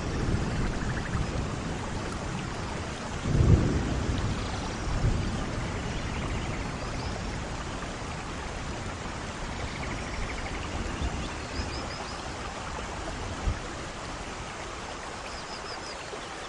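Steady rain falling on rainforest foliage, with a low roll of thunder swelling about three and a half seconds in and a smaller rumble later. Faint high chirps sound twice in the second half.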